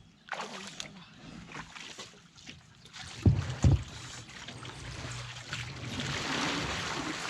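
Scattered small splashes of water, then two heavy thumps half a second apart a little over three seconds in, followed by a steady rush of wind on the microphone that builds toward the end.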